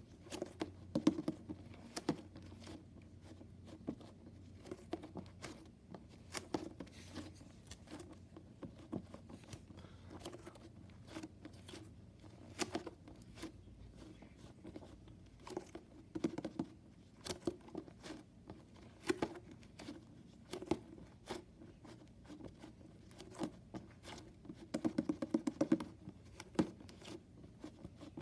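Hands squeezing and pressing a handmade tape squishy filled with bubbly slime: irregular sticky clicks, pops and soft squelches with crinkling, some clusters of quick snaps.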